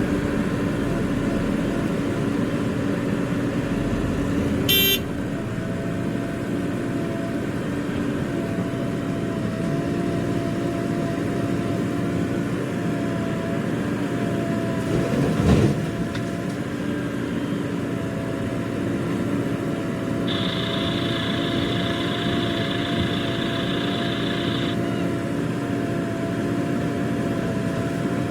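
Diesel engines of a backhoe loader and tractors running steadily at a mud-loading site. There is a sharp click about five seconds in, a brief swell around fifteen seconds in, and a steady high tone lasting about four seconds from around twenty seconds in.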